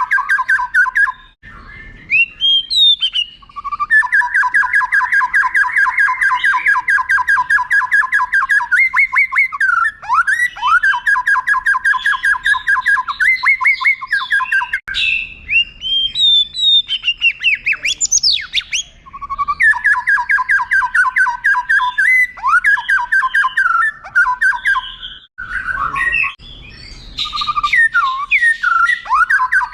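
White-rumped shama (murai batu) singing: long rapid-fire trills of repeated notes lasting several seconds each, broken by short upward-sweeping whistles and brief pauses. These are the long drawn-out phrases used as training song for contest birds to copy.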